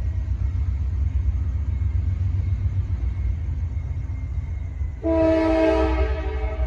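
Freight train led by CSX and Norfolk Southern diesel locomotives, a heavy low rumble of the engines throughout. About five seconds in, the locomotive's air horn sounds one chord of several notes for about a second and a half.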